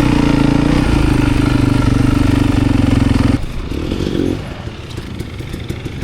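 Dirt bike engine running close to the microphone at steady revs. About three seconds in, the sound drops abruptly to a quieter, rougher engine rumble.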